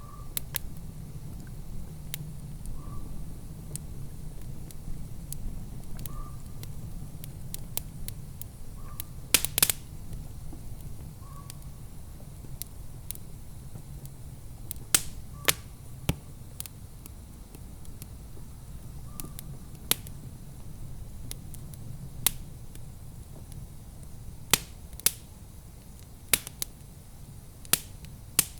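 Wood fire in a fireplace crackling, with irregular sharp pops and snaps, a few much louder than the rest, over a low steady rumble.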